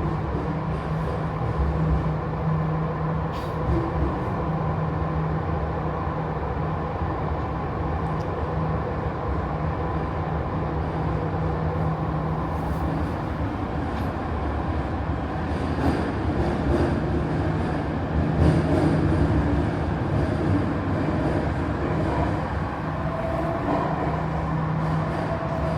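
Jakarta MRT train running through its underground tunnel, heard inside the passenger car: a steady rumble of wheels on rails under a steady motor hum.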